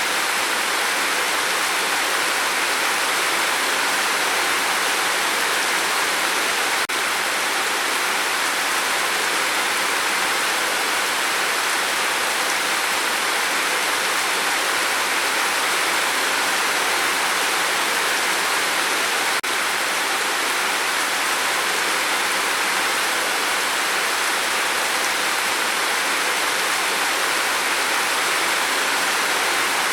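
Steady gentle rain falling, heard as an even, continuous hiss.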